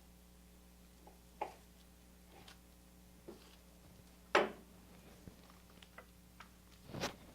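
Kitchen prep handling sounds: a few scattered light knocks and clicks, the loudest about four seconds in and another near the end, as rolled crescent dough is sliced with a butter knife and the pinwheels are set on a baking pan.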